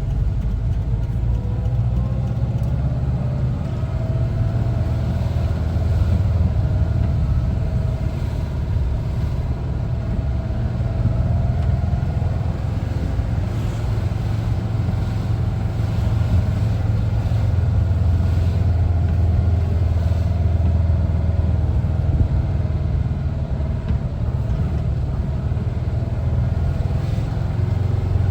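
1974 Volkswagen Westfalia camper bus being driven, its air-cooled flat-four engine running under a steady low rumble mixed with road noise. A fainter whine slowly rises and falls in pitch as the speed changes.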